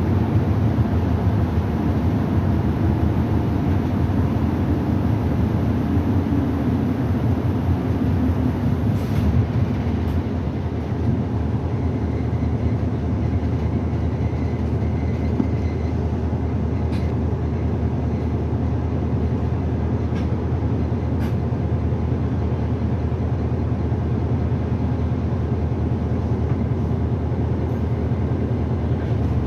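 Nagasaki Bus city bus no. 2202 under way, heard from inside: a steady engine and drivetrain drone with a tone that falls over the first several seconds, and a few faint clicks or rattles later on.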